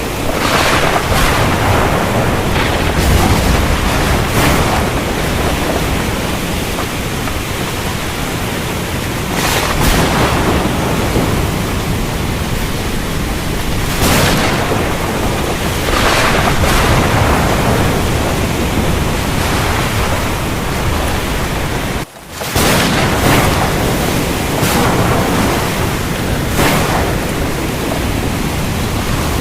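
Heavy rain falling steadily, with several brief swells of thunder at irregular intervals. The sound drops out for a split second about two-thirds of the way through.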